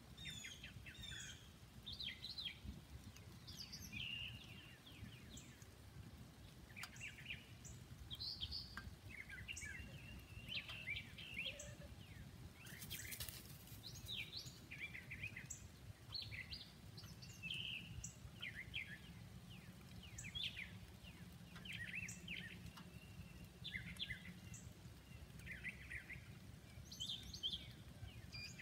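Several songbirds chirping and singing on and off, short trills and calls over a steady low background rumble.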